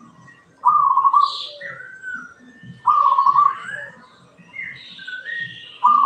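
Caged zebra dove (perkutut) and Eurasian tree sparrows calling: a loud, rapidly pulsed call repeats three times, two to three seconds apart, with thinner, higher chirps in between.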